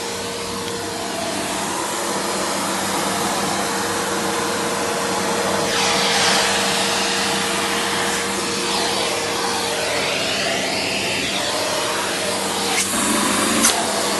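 Turbomax upright vacuum cleaner running, a steady rushing motor noise with a constant hum note under it. The sound grows brighter for a while about halfway through, and near the end the hum note drops out with a couple of sharp clicks.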